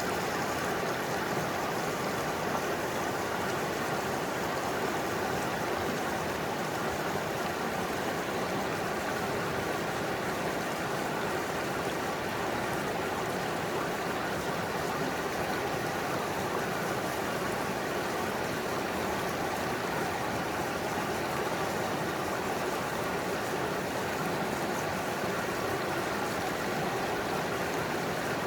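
Mountain stream flowing over rocks, heard up close: a steady, even rush of water.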